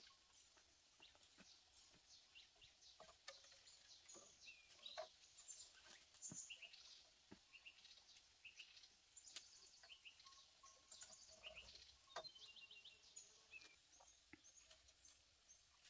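Faint birdsong: many short, high chirps and calls from several birds, with a few light knocks and taps scattered through.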